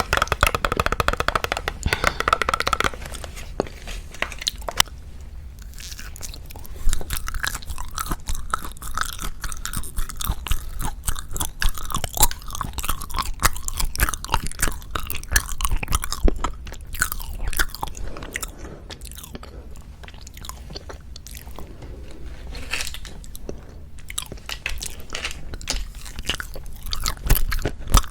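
Close-miked chewing of wagashi, Japanese confections, with crunching bites. Loudest for the first few seconds, then softer chewing broken by sharper bites now and then.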